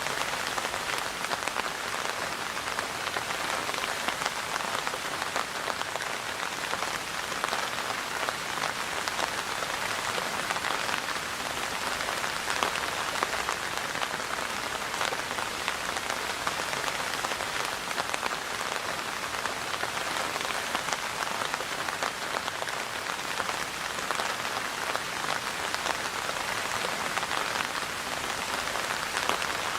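Steady rainfall, a dense even patter of many raindrops striking a surface, with no let-up.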